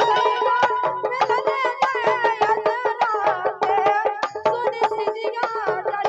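Instrumental folk music: a melody instrument plays a wavering tune over fast, steady hand-drum strokes.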